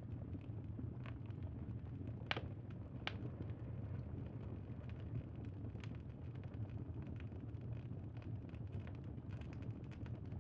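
Campfire crackling over a steady low rumble, with scattered small pops and two louder pops a little over two and three seconds in.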